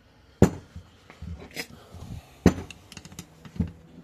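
A tool knocking against an ATV brake caliper as its halves are pried apart: three sharp knocks, about a second in, near the middle and near the end, with lighter clicks between.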